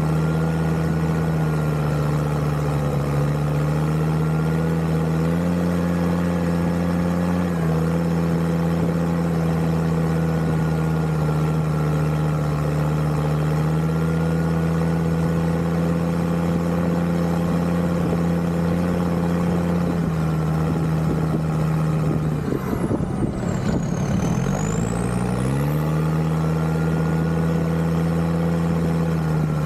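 Land Rover Discovery 2's Td5 five-cylinder turbodiesel running steadily under way, its note stepping slightly up and down. About three quarters of the way through the engine note falls away and climbs back.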